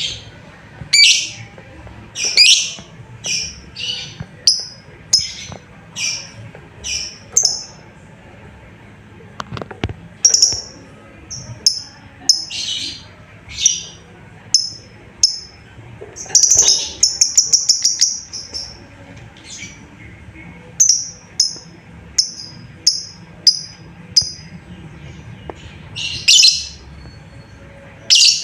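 Lovebird calling: a long series of sharp, high-pitched chirps, about one or two a second, some louder sweeping shrieks among them, and a fast rattling run of calls about two-thirds of the way through. It is a contact call that urges other lovebirds to answer.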